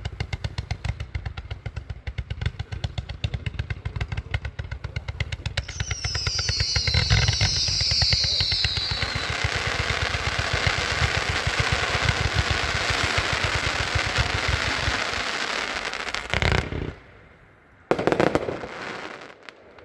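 'Zip It' 158-shot firework cake firing a rapid, continuous string of shots. About six seconds in a high whistle falls slowly in pitch, and from about eight seconds a dense crackle builds. The cake stops about sixteen and a half seconds in, and one more loud bang follows about eighteen seconds in.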